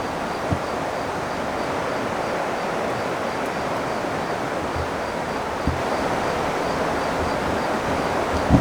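Steady rushing noise of the river, with a faint high insect chirp repeating about three times a second. A few soft low thumps come through it, the strongest near the end.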